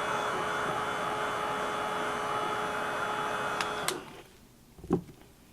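Craft heat tool running, its fan giving a steady whine over a rushing hiss, switched off with a click a little before four seconds in; about a second later comes a single thump.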